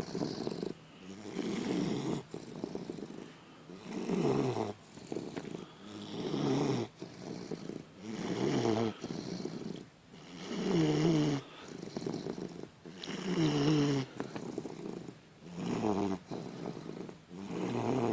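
An 11-week-old basset hound puppy snoring in its sleep, with a snore about every two seconds.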